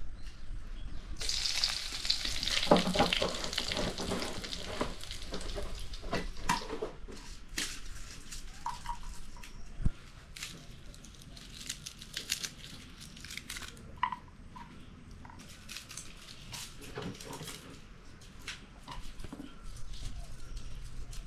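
Food frying in hot oil in a pan. The sizzle starts suddenly about a second in, as if something has just gone into the oil, is loudest over the next few seconds and then eases to a quieter sizzle. Short clicks of stirring run throughout.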